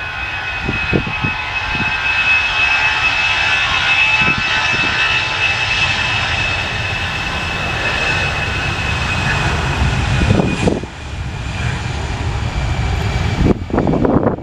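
Jet airliner's engines running loud and close, a steady high whine over a broad rumble, the whine sinking slightly in pitch towards the end as the aircraft moves on.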